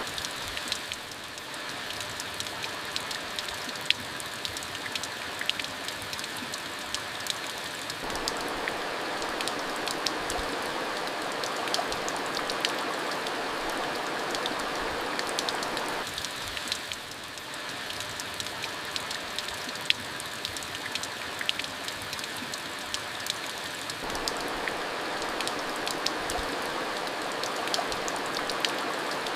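Steady rain falling: an even hiss with many sharp ticks of drops striking a surface scattered through it.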